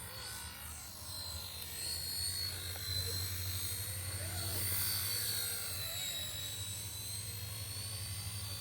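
Radio-controlled helicopter in flight: a steady high whine that wavers in pitch over a low rotor hum, growing somewhat louder around the middle.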